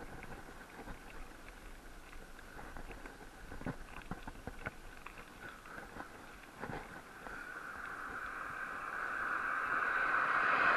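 Bicycle riding noise: a steady rush of wind and tyre noise with scattered clicks and rattles, building to a loud swell of rushing noise near the end.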